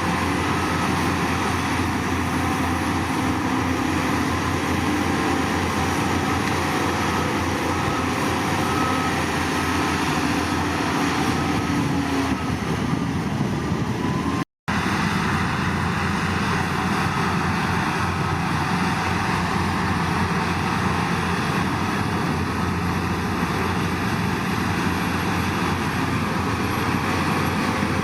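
Heavy diesel construction machinery running steadily under load. The sound cuts out completely for a fraction of a second about halfway through.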